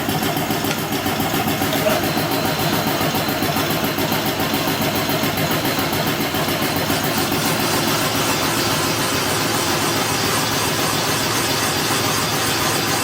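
Cylinder boring bar running steadily as it cuts a cylinder bore in a Ford 302 V8 block.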